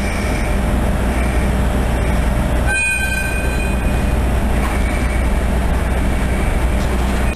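Passenger carriages rolling past a station platform with a loud, steady rumble. About three seconds in, a train horn gives one short two-tone blast.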